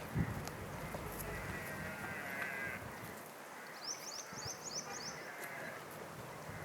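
Birds calling over a faint background hiss: a drawn-out call for about a second and a half, then a quick series of about seven high chirps from a small bird, and a fainter call after it.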